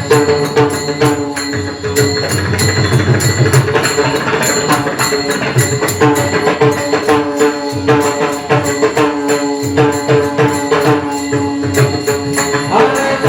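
Devotional bhajan music: pakhawaj drumming in a fast, steady rhythm, with jingling percussion and steady held melodic tones over it.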